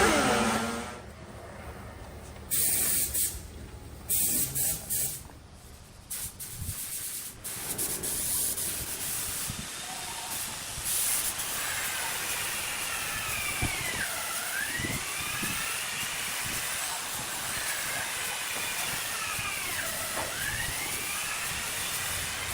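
Compressed air hissing: a few short spurts in the first seconds, then a long continuous spray with a gently sweeping tone.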